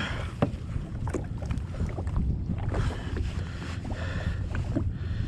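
Wind rumbling on the microphone and water sloshing around a kayak, with scattered small knocks and clicks, one sharper knock about half a second in.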